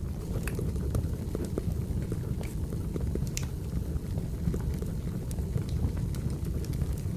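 Crackling wood fire: a steady low rumble of burning logs with irregular small pops and snaps scattered throughout, with pencil writing on paper laid over it.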